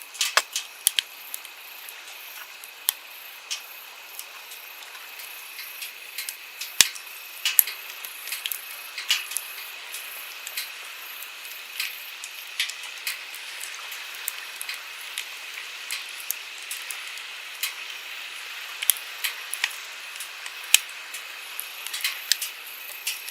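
Wood campfire crackling, with irregular sharp pops and snaps of burning firewood over the steady rush of a flowing stream.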